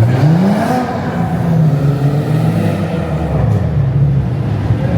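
Car engine revving: the pitch climbs quickly in the first second, holds high with small rises and falls, then eases down near the end.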